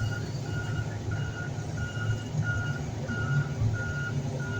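Reversing alarm of a heavy vehicle beeping evenly, about one and a half beeps a second, over the low running of its diesel engine as it backs up.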